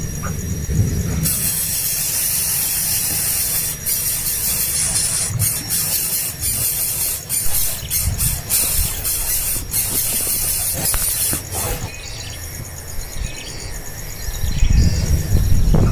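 Young birds begging for food with a shrill, hissing squeal that starts suddenly about a second in and stops near the end, broken by short sharp calls.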